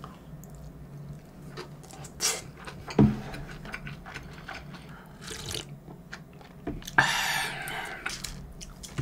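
Close-miked chewing of a big mouthful of shrimp fried rice, with wet mouth clicks and smacks. There is a sharp click about three seconds in and a second-long rush of noise near the end.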